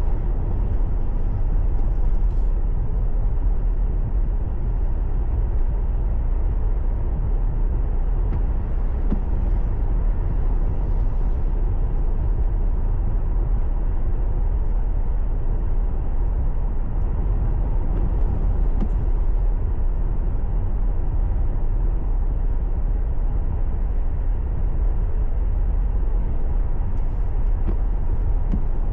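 Steady low road rumble of a car driving, tyre and engine noise picked up by a dashcam inside the cabin.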